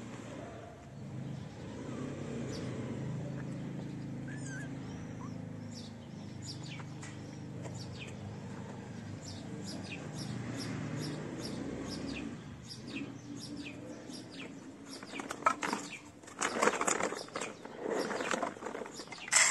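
Small birds chirping over and over, short high notes throughout, over a low steady rumble that fades about two-thirds of the way through. Near the end come louder rustling bursts close by.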